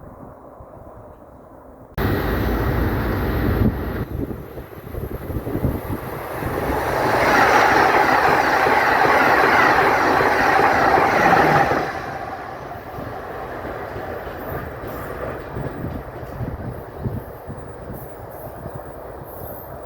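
A train passing on the rails: a sudden rise in noise about two seconds in, growing to its loudest for several seconds in the middle with a steady tone over the rumble of the wheels, then easing back to a lower steady rumble.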